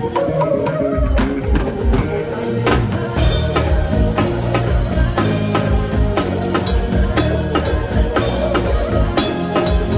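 Live band playing with a drum kit and bass guitar, a steady beat, the bass line coming in about a second in.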